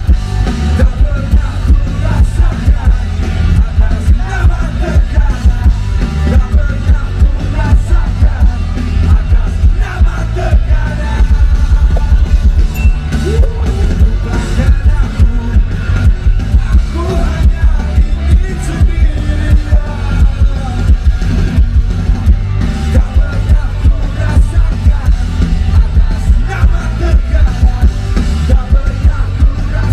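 Live rock band playing loudly with a steady, heavy beat and strong bass.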